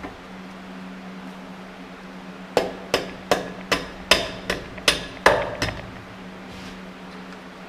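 Nine sharp hammer taps on metal in a steady run, about two or three a second, starting a few seconds in, over a steady low hum.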